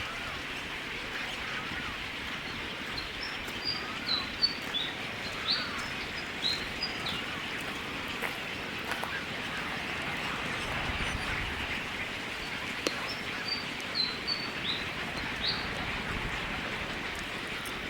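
A bird giving two series of short, high chirps, a run of quick notes a few seconds in and another near the end, over a steady outdoor hiss.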